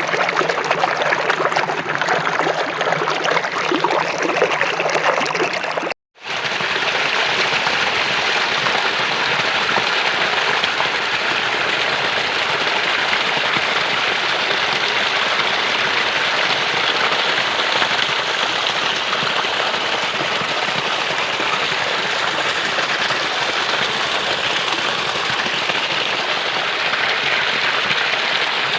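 Steady rush of running or falling water. About six seconds in it cuts out for a moment, then comes back as a brighter, more even hiss.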